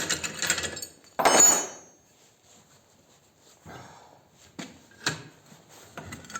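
Metal scraping and rattling twice in the first two seconds, then a few separate light knocks, as tools work a pulley off an old engine's shaft.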